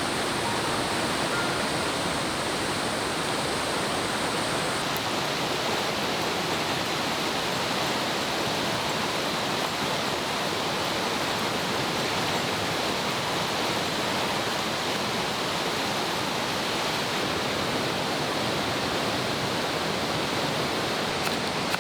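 A river running, a steady, even sound of flowing water.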